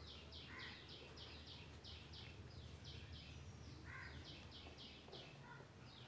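Faint bird song: quick runs of short, falling chirps, about three a second, one run over the first three seconds and another in the second half, over a low steady background rumble.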